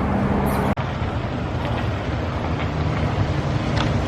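Vehicle driving: a steady low road-and-engine rumble, with a momentary dropout about a second in.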